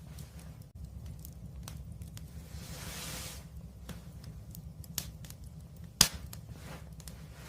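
Wood fire crackling with scattered sharp pops, the loudest about six seconds in, and a brief hiss around three seconds in, over a low steady rumble.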